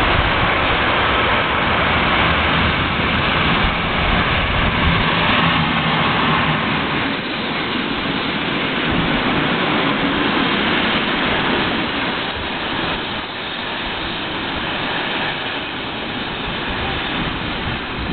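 CargoNet El 14 electric locomotive passing close by with a freight train, loudest in the first several seconds, followed by a steady rolling noise of flat wagons' wheels on the rails.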